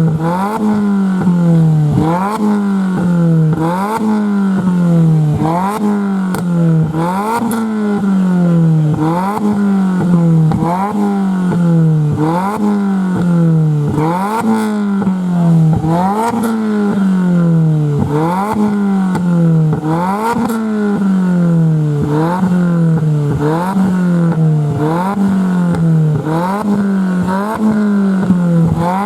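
Car engine revved in quick repeated throttle blips, about one every second and a bit: each rev climbs sharply, then falls away more slowly before the next.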